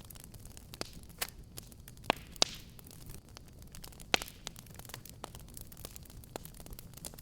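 Fireplace fire crackling: a steady run of small snaps over a low rumble, with three louder pops about two, two and a half and four seconds in.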